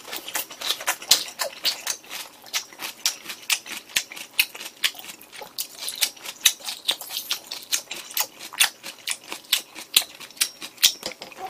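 A person chewing a mouthful of kimchi fried rice close to the microphone: quick wet mouth clicks, several every second.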